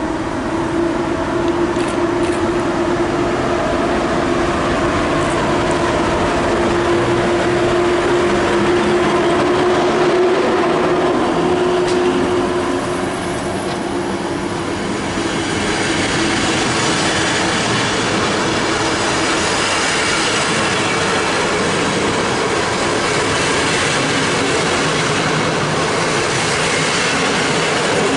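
Train running through the station: a steady whine for roughly the first half, then louder, hissing rolling noise of wheels on rail from about halfway on.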